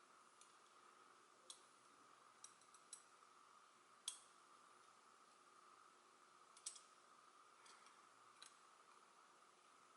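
Faint, scattered clicks of the small cast-metal pieces of a Hanayama Enigma puzzle being handled and set down, about seven in all, the sharpest about four seconds in, over a faint steady hum.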